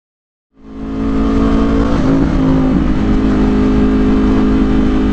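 Silence, then about half a second in a vehicle engine starts sounding and runs steadily with a low road rumble, recorded by a dashcam's microphone.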